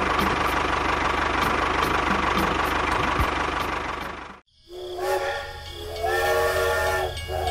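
A toy tractor's small electric motor runs with a steady whir and a thin whine, fading out about four seconds in. Then a toy steam locomotive's electronic whistle sounds in long, steady tones that step in pitch.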